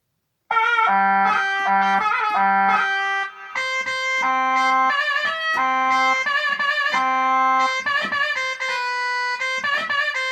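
Korg Pa600 arranger keyboard playing an Oriental-style melody on a sampled instrument voice from a Kronos sound set. The quick notes and wavering held notes run over a lower repeated note, starting about half a second in.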